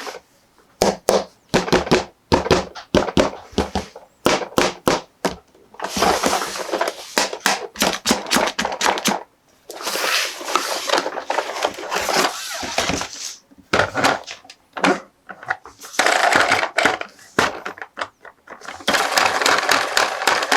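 Toy packaging and plastic toy parts being handled at close range: quick runs of sharp clicks and taps alternating with several stretches of rustling, crinkling packaging.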